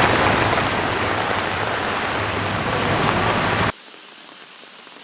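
Heavy rain and running floodwater, a steady dense hiss that drops suddenly to a much quieter hiss about three-quarters of the way through.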